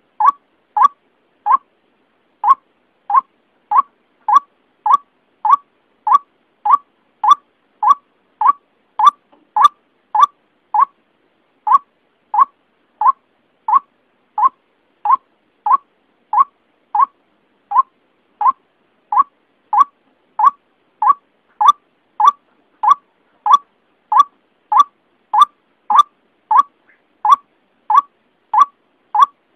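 Lure recording of a white-breasted waterhen calling: a short, clipped note repeated steadily about one and a half times a second, with a couple of brief pauses.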